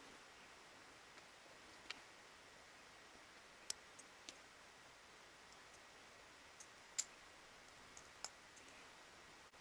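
Near silence with a faint steady hiss and about eight small, sharp clicks scattered irregularly, the loudest about seven seconds in.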